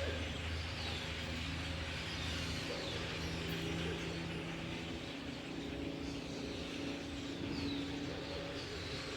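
An engine running steadily at a distance with a low hum, while a few birds chirp faintly now and then.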